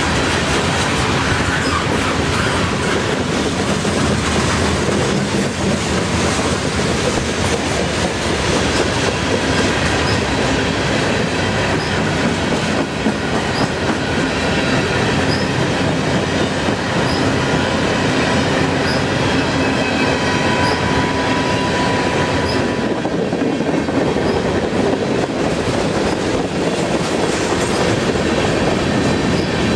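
Freight cars of a CN freight train rolling past at close range: a steady rumble and clatter of steel wheels on the rails. A thin wheel squeal rises out of it just after the start and again about two-thirds of the way through.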